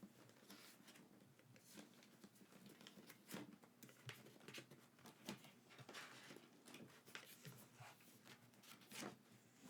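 Faint, irregular rustling, clicking and tapping of merchandise packaging being handled: paper, card and plastic items being picked up, moved and set down.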